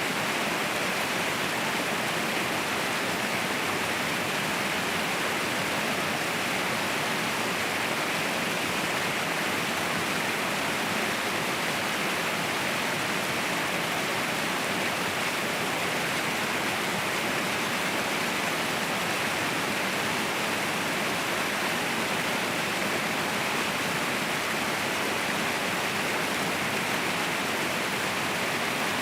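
Mountain waterfall: a steady, unbroken rush of falling water, bright and hissy with little deep rumble.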